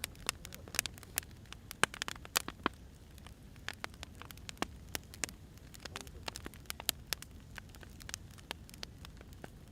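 Burning firewood crackling: irregular sharp pops and snaps over a low steady rumble, coming thickest in the first few seconds and more scattered after.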